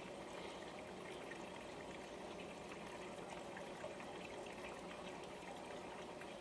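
Faint, steady background hiss, like trickling water, with no distinct events.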